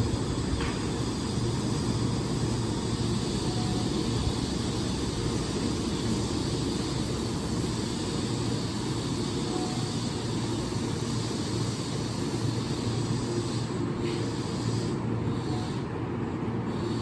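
Keihan 6000 series electric train standing at the platform, its onboard equipment giving a steady low hum with a hiss over it.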